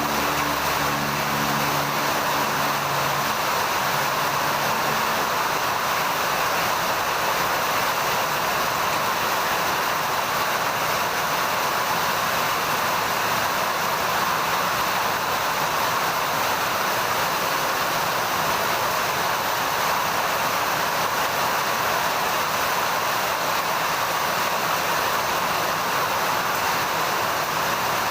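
Heavy rain falling steadily, an even, unbroken hiss. A low hum fades out over the first few seconds.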